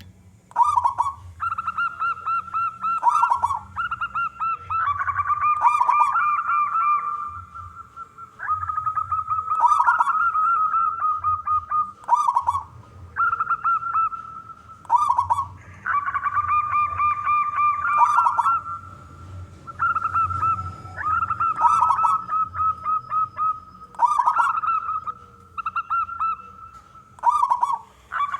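Male zebra dove (perkutut) singing: phrase after phrase of rapid cooing notes, each phrase a second or two long with short pauses between.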